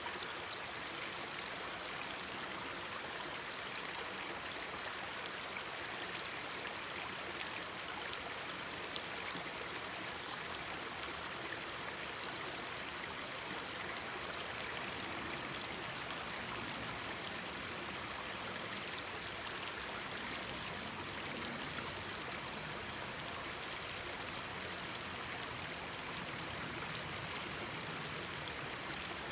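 Mountain stream babbling and rushing steadily over rocks.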